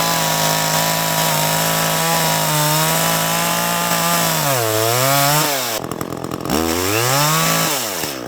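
Small Echo two-stroke chainsaw held at high revs for about four and a half seconds, then let off and revved up again twice.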